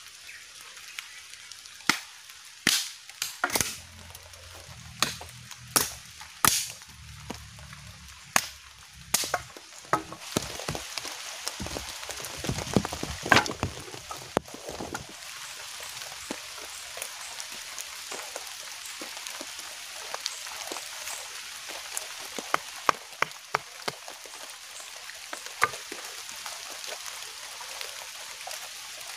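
Drizzle falling on a tarp shelter and the forest around it. Loud sharp ticks from single drops come every second or so for the first ten seconds, then a steady hiss of rain thickens with fewer, lighter ticks.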